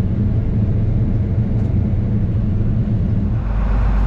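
Combine harvester running steadily under harvest, a loud low drone of engine and threshing machinery; about three and a half seconds in the drone changes to a deeper, steadier hum.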